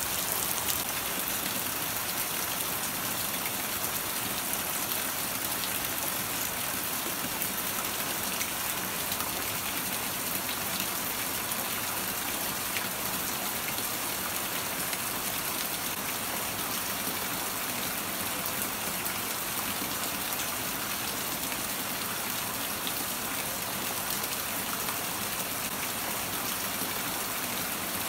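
Steady rain falling on wet pavement and leaves: an even wash of sound dotted with many small drop ticks, with water streaming off a roof edge.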